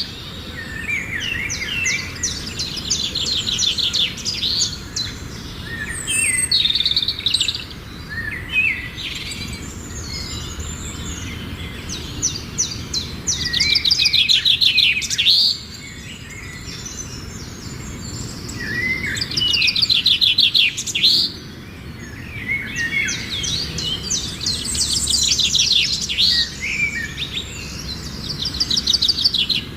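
Songbirds singing: fast trilled phrases and chirps repeated every few seconds.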